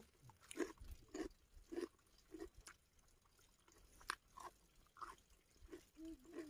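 Faint chewing of a mouthful of cabbage leaf and rice, with soft, even chews about every half second, then a few scattered wet clicks of the mouth.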